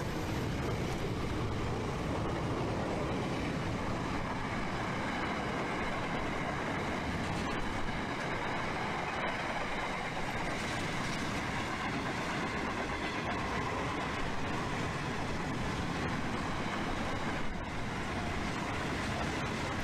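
Steel freight train's wagons rolling steadily past, a continuous rumble of wheels on rail with a few faint clicks.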